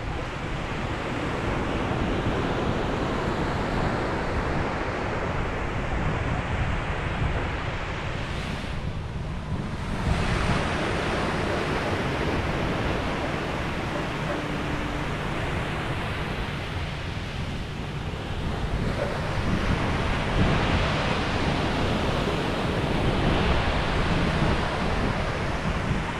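Sea surf washing onto a beach: a continuous rush of waves that briefly eases about nine seconds in and swells again about ten and twenty seconds in. Wind buffets the microphone.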